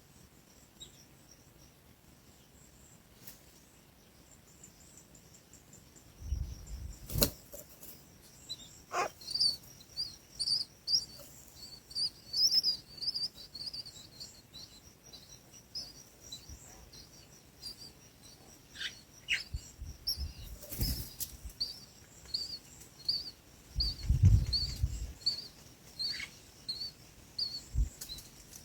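A small bird chirping over and over in short, high chirps, about one or two a second, starting about a third of the way in. A few sharp clicks and low thumps stand out among them.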